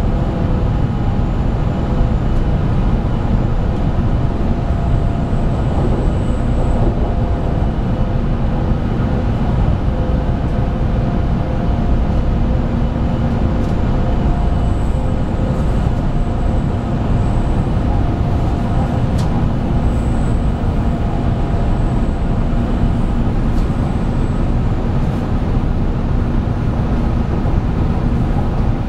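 A 700 series 7000 'Rail Star' Shinkansen train running at speed, heard from inside the car: a steady rumble of wheels and running gear with a few faint steady tones above it.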